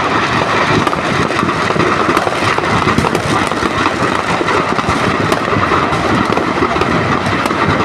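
Firecrackers crackling and popping continuously in a dense, unbroken stream, as if a stock of them is burning.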